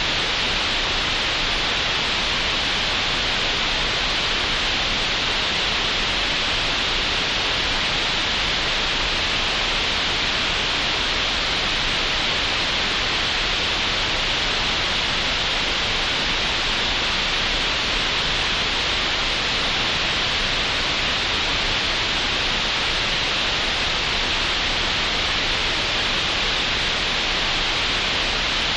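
Steady computer-generated green noise: an even, unchanging hiss, strongest in the upper mid-range and cut off sharply at the top.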